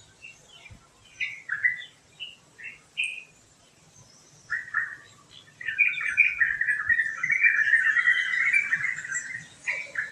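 Birds chirping: a few short separate chirps early, then from about halfway a songbird's busy, continuous warbling song lasting around four seconds, the loudest part.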